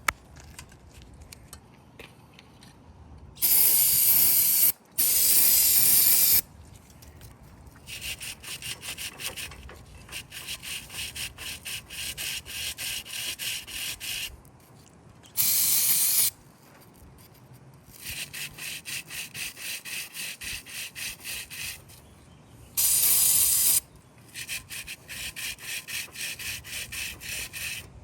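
A stiff brush scrubbing the passages of a bare cast-iron 383 V8 engine block in quick rhythmic strokes, broken four times by loud hissing bursts of spray, each about a second long, rinsing the block.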